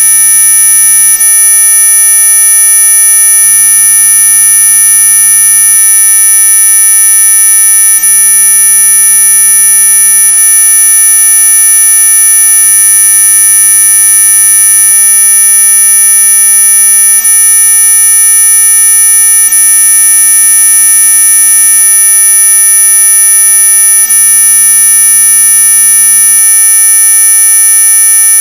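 Electronic mosquito-repellent tone: a loud, steady, high-pitched whine made of several fixed tones at once, the strongest very high, unchanging throughout. It is sold as an ultrasonic sound to drive away mosquitoes, but it sits within hearing range.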